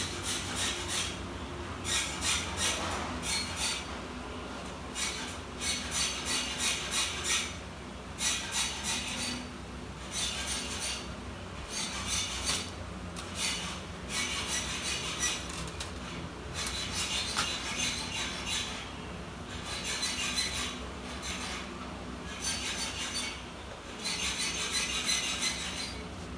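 Bursts of scraping and clicking, a second or two each with short pauses between, from small plastic and metal parts of a Dell Latitude E7470 laptop being worked on by hand during keyboard replacement.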